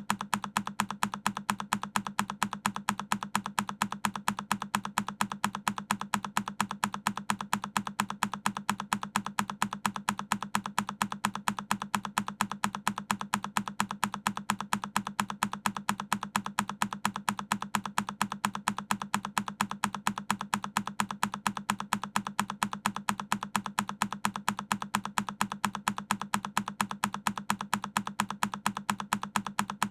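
A single key on a Keychron K10 mechanical keyboard clicking over and over as a looped sound effect, about three presses a second in a steady, even rhythm.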